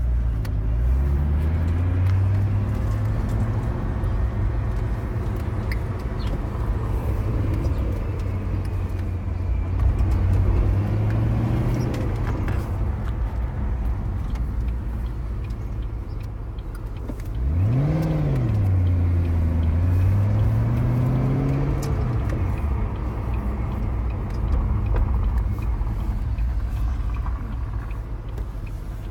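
Ford GT's supercharged V8 engine heard from inside the car while driving: the engine note climbs and drops several times under acceleration and gear changes, with one quick sharp rev about eighteen seconds in.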